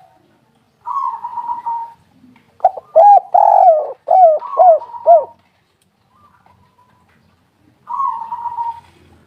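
Spotted dove (tekukur) cooing. A drawn-out buzzy note is followed by a run of about five short rounded coos, and another buzzy note comes near the end.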